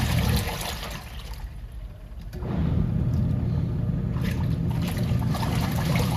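Mabe 13 kg twin-tub washing machine agitating a load in water: a steady motor hum with churning water. It dies down about half a second in and starts again about two and a half seconds in.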